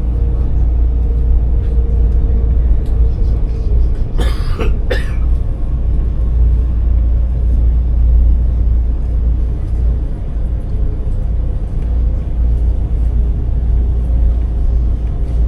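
Train running with a steady, loud low rumble and a faint steady hum. About four seconds in there is a brief double noise, such as a cough.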